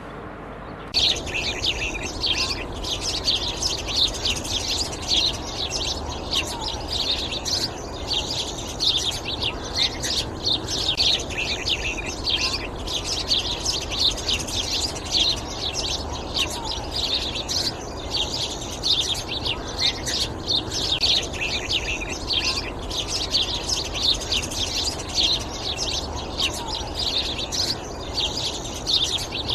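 Yellowhammers chirping: a dense, continuous stream of rapid high chirps that starts abruptly about a second in.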